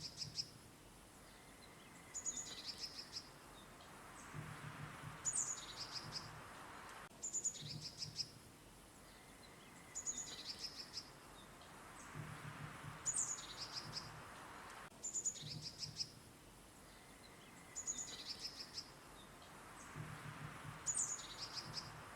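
Songbirds chirping and trilling in short high phrases over a faint steady hiss, the same few seconds repeating about every seven and a half seconds.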